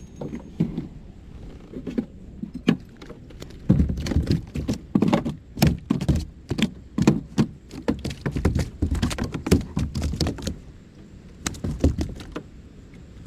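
A fast, irregular run of knocks and thuds on a kayak, with quieter ones at first and the thickest stretch in the middle, as a small bass is landed and handled aboard.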